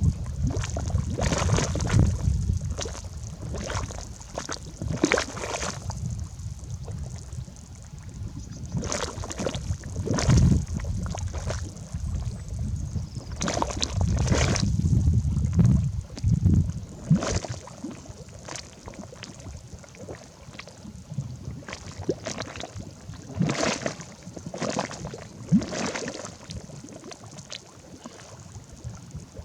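Mud volcano vents bubbling, with irregular gurgling pops and plops of mud. A low rumble runs under the first half and fades out about halfway through.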